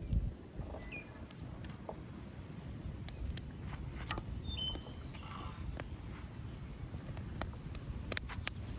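Quiet outdoor ambience with a few short bird chirps and scattered faint clicks and crackles over a low rumble.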